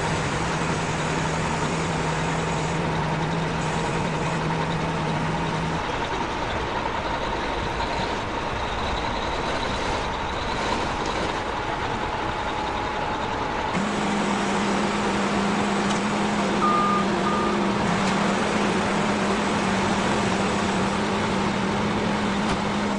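Heavy truck engine running steadily, with a continuous low hum.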